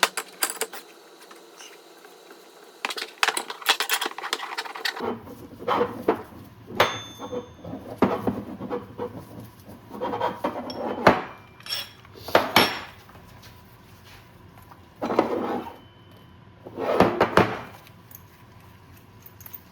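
Metal parts and hand tools clinking and clattering on a workbench, with sharp clicks and several short rasping bursts, as a dirt bike's shock linkage is worked on.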